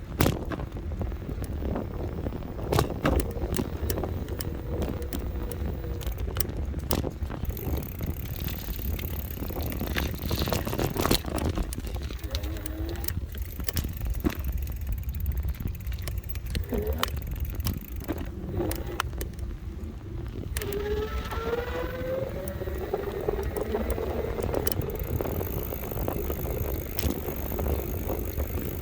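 Electric bike being ridden: steady wind and road rumble on the microphone, with frequent rattles and knocks from the bike. A thin whine comes and goes, gliding up in pitch about two-thirds of the way through.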